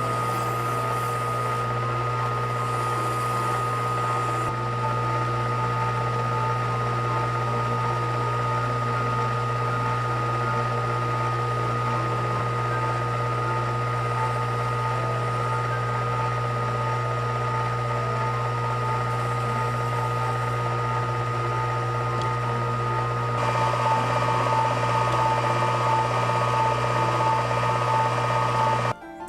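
Sakai ML-210 mini benchtop lathe running steadily, its motor giving a constant hum with fixed whining tones. It grows slightly louder and brighter about three-quarters of the way through, then drops out briefly right at the end.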